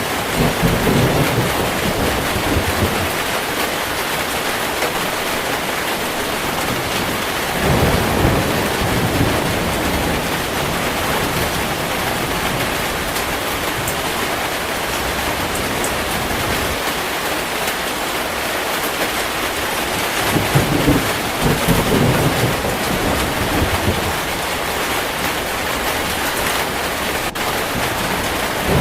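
Heavy rain falling steadily, with low rolls of thunder near the start, about eight seconds in and again about twenty-one seconds in.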